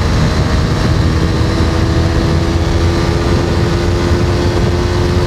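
Jawa 42's 293 cc single-cylinder engine running steadily at speed under a dense low rumble. Its note holds almost level, creeping slightly higher.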